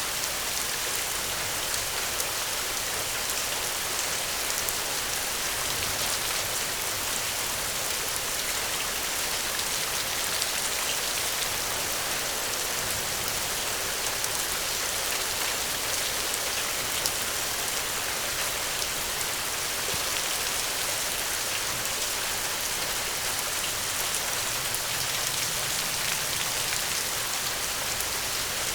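Steady rain: a constant even hiss with many faint scattered ticks of drops.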